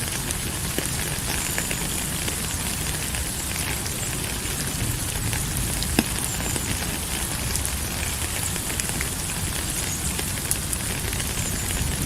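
Steady rain, an even hiss with many small scattered drop ticks and one sharper tick about halfway through.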